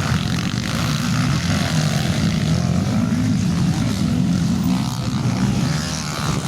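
Motocross bike engines running, their pitch rising and falling as they rev through the throttle.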